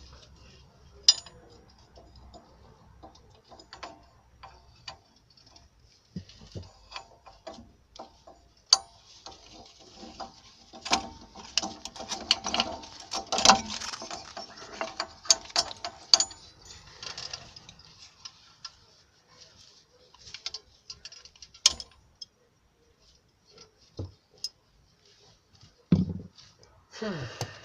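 Metallic clicks, knocks and rattling of a Chery Bonus 3's rear drum brake hardware being handled and taken apart by hand, thickest with some ringing metal about halfway through.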